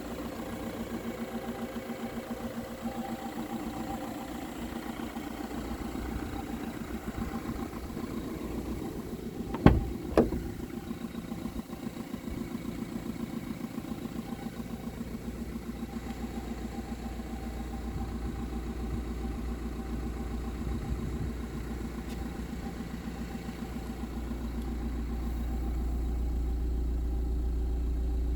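Fiat Doblo's 1.6 JTD four-cylinder diesel engine idling steadily. Two sharp knocks come close together about ten seconds in, and a low rumble grows louder near the end.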